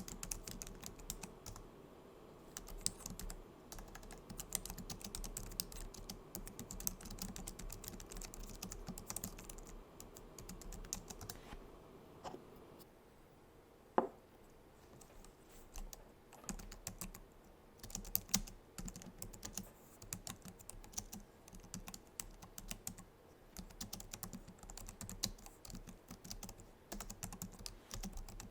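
Typing on a Logitech MX Keys keyboard, its low-profile scissor-switch keys clicking in quick, uneven runs. A little before halfway the typing pauses for two or three seconds, broken by one sharper single click, then carries on.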